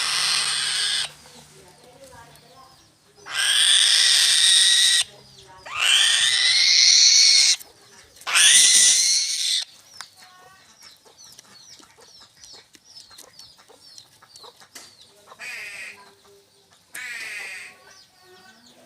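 A bird calling loudly four times in the first ten seconds, each call 1 to 2 seconds long, with fainter short chirps and two brief buzzy calls after.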